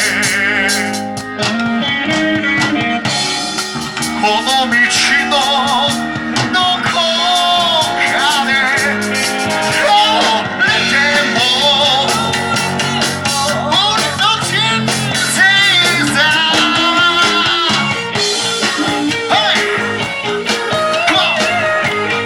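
Rock and roll band playing live, with a singer over guitars and band backing.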